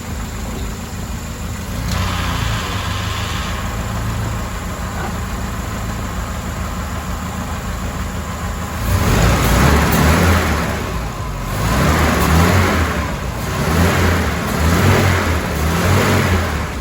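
Mercedes-Benz W124 230E's four-cylinder petrol engine idling steadily, then revved up four times in quick blips during the second half.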